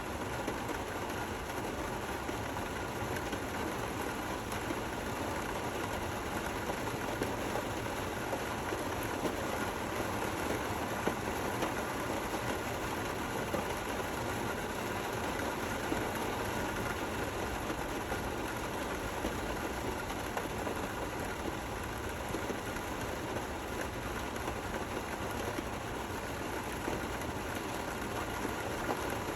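Steady rain falling, an even hiss of many small drop impacts with no thunder.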